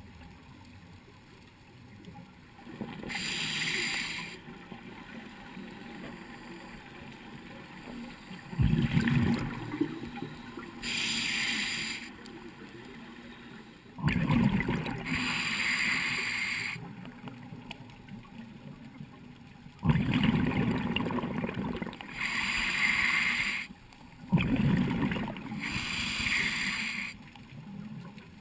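Scuba diver breathing underwater through a regulator: a hiss on each inhale and a loud bubbling rumble as each exhale vents, in slow breaths about every five or six seconds.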